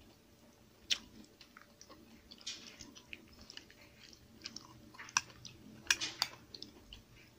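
A person chewing and eating a meal of chopsuey and fried pork belly, with scattered sharp clicks, the loudest about a second in and around five to six seconds in.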